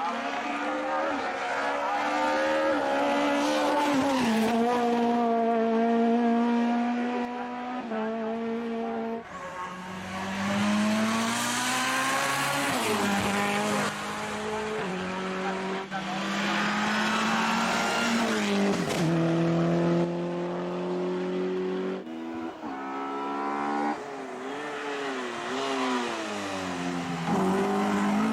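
Race car engine running hard through a long series of gear changes. Its pitch holds or climbs in each gear, then drops or jumps abruptly at each shift, a dozen or so times.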